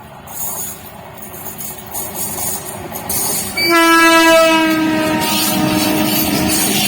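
An approaching train's running noise grows steadily louder. About three and a half seconds in, the Indian Railways locomotive sounds one long horn blast that holds to the end over the rush of the passing train.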